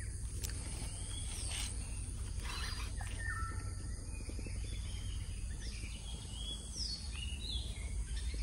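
Birds chirping, with short calls and several falling whistles, over a steady low rumble of outdoor background noise.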